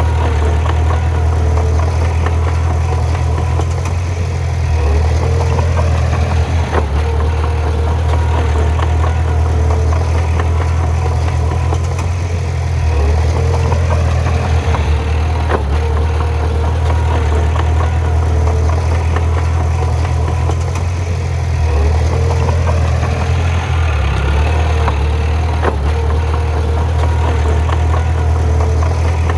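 Bulldozer's diesel engine running steadily, its note swelling louder about every eight seconds, with a few sharp metallic clanks over it.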